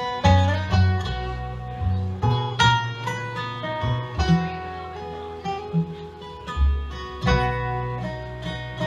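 Acoustic string band playing an instrumental break: a run of plucked acoustic guitar notes over deep bass notes.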